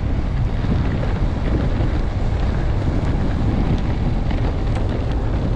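Strong wind rumbling and buffeting against the camera microphone, a steady heavy low rumble throughout, with a few faint ticks.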